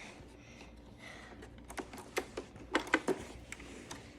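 A few sharp light clicks and taps about halfway through, the sound of hard parts of a robot vacuum being handled and set down, over a low steady room hum.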